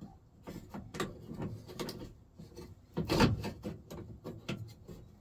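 Hands working on a pickup truck door's latch and handle parts: a run of short clicks, knocks and rubbing, with one louder clunk about three seconds in.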